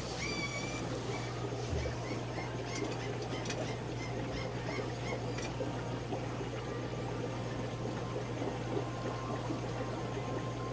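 Steady splashing and trickling of aquarium filtration over a constant low pump hum. A run of short chirps from caged birds sounds during the first half.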